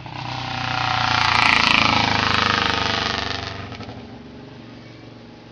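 A motor vehicle driving past: its engine grows louder, peaks about two seconds in, then fades away.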